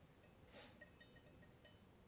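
Near silence, with a few faint short high peeps and one brief soft hiss about half a second in.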